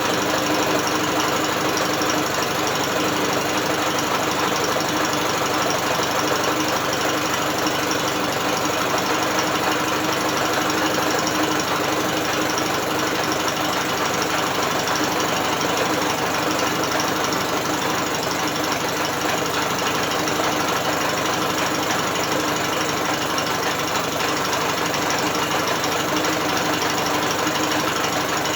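British Seagull two-stroke outboard motor turned over by an electric drill, not firing: a steady, fast mechanical running sound of the spinning engine and gearing, unchanging throughout.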